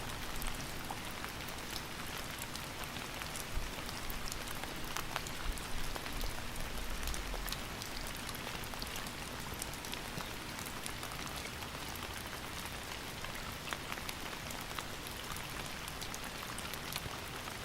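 Steady rain, with many individual drops pattering on a surface and a faint low rumble around three to seven seconds in.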